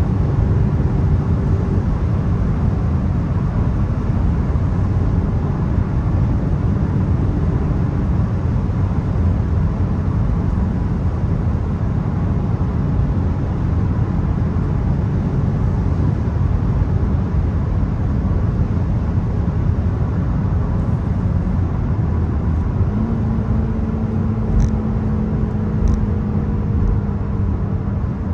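Volkswagen Golf 1.0 TSI's three-cylinder turbo petrol engine running under way, with a steady low rumble of road and tyre noise. About three-quarters through, a steadier engine note comes in, and two faint clicks follow near the end.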